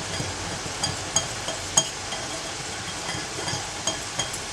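A utensil stirring a bowl of seasoned batter mix: a steady scraping with several sharp clinks against the bowl.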